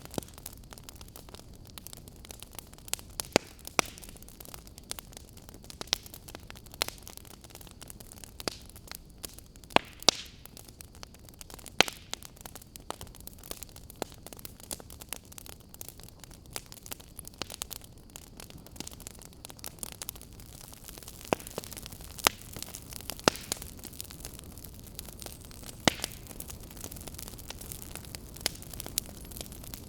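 Wood fire crackling in a fireplace: irregular sharp pops and snaps, a few a second, some louder than others, over a steady low hiss.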